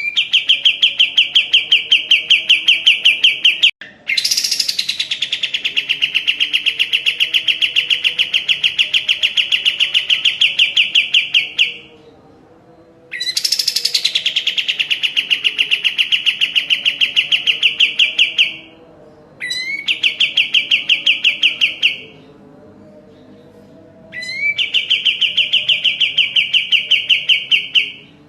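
Kapas tembak, a bulbul, singing in long bursts of rapid repeated notes, about eight a second. Each burst opens with a quick pitch sweep and runs from two to eight seconds, with five bursts separated by short pauses.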